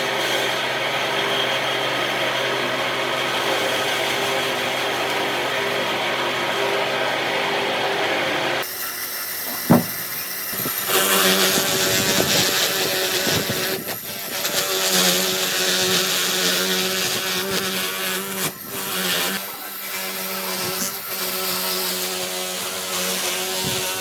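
Power tools working wood: a steady motor hum that cuts off abruptly about a third of the way in, a sharp click, then a power tool cutting or grinding wood with a rougher, wavering sound over its motor hum.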